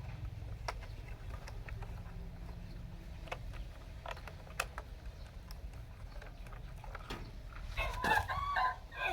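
A rooster crows once near the end, over a steady low hum and scattered light clicks.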